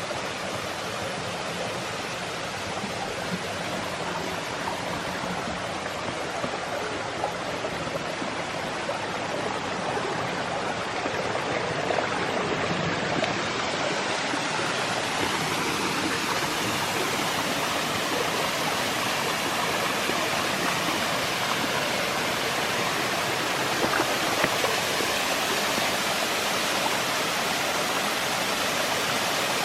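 Waterfall rushing steadily, a full, even roar of falling water that grows gradually louder and brighter through the second half.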